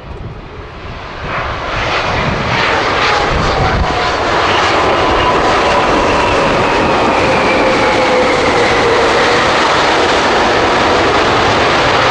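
Jet engines of a Boeing 787-8 Dreamliner, Rolls-Royce Trent 1000s, getting louder over the first three seconds and then running loud and steady. Whining tones in the noise slide slowly down in pitch.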